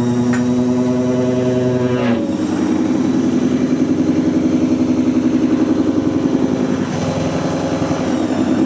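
AEG washing machine's motor and loaded drum running, with a steady hum and a high whine. About two seconds in there is a short click, and the sound changes to a rhythmic pulsing.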